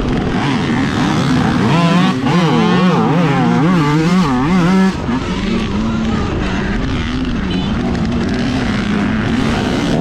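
Dirt bike riding at race pace over rough ground, its motor note rising and falling quickly from about two to five seconds in, then steadier, over constant wind and terrain noise.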